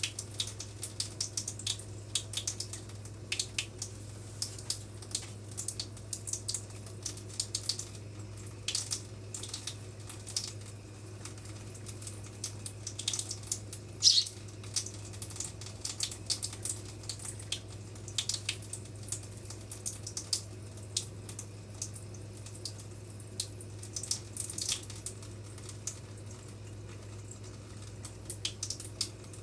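Small bird eating: irregular, quick clicks and ticks of its beak pecking at food, over a steady low hum.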